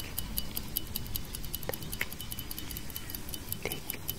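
Fast clock-style tick-tock, about five ticks a second, from a countdown timer sound effect. A few brief chime-like clinks ring out over it, at about a second and a half in, two seconds in and again near the end.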